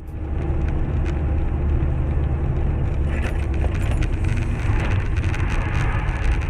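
Car on the move: steady low rumble of road and engine noise, with faint clicks and rattles in the second half.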